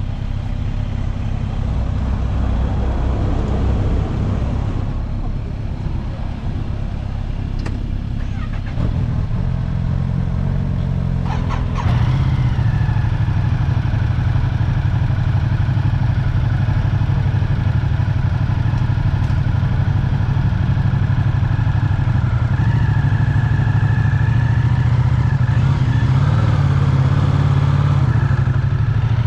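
Vehicle engine running steadily while under way. The low engine note rises a step about nine seconds in and again about twelve seconds in, then holds.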